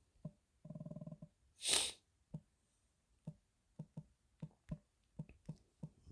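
A short hummed murmur and a quick breath, then computer keyboard keys tapped one at a time, about two a second, as a search is typed in.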